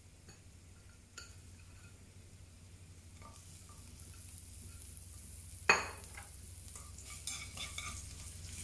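Sliced garlic and ginger sizzling gently in oil in a nonstick frying pan on low heat, the sizzle faint at first and growing steadier. One sharp clack about two thirds of the way through is the loudest sound, with a few light clicks near the end.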